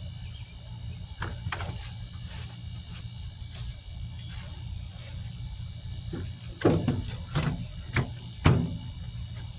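Scattered knocks and rustles of garden material being handled while a raised bed is filled, with four louder sharp thumps in the second half, over a steady low rumble.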